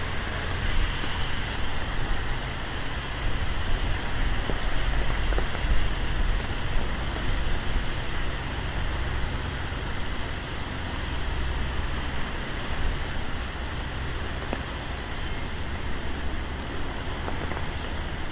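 Steady rain falling on a city street, with a low rumble of road traffic that swells and eases.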